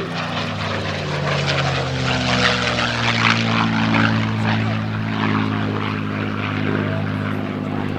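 P-51D Mustang's Rolls-Royce Merlin V-12 engine and propeller running as the plane flies past, the engine note sliding down in pitch over the first few seconds and then holding steady.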